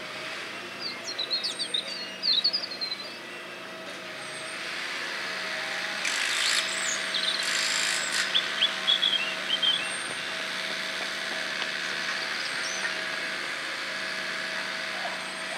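Small birds chirping in quick high twittering runs, twice: about a second in and again past the middle, over a steady background hum from machinery.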